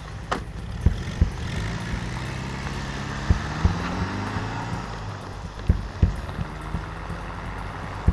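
A car engine pulling away, its pitch climbing steadily for a few seconds as it accelerates off, over a low steady hum. Sharp knocks are heard throughout, footsteps on pavement, with a harder thump just after the start.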